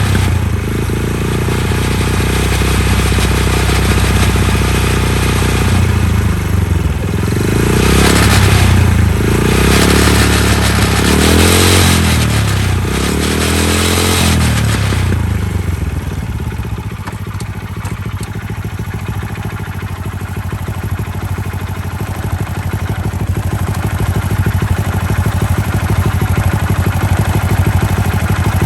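Honda Little Cub AA01's 50cc four-stroke single idling, revved up and down several times in quick succession about a third of the way in, then settling back to idle with a fast rattling clatter. The clatter is typical of the abnormal noise from around the engine that is being hunted down.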